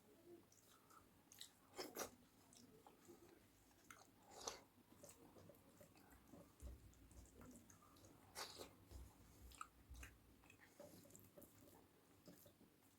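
Faint, close-up chewing and biting of food, with scattered short crunches and wet mouth clicks and a few low bumps near the middle.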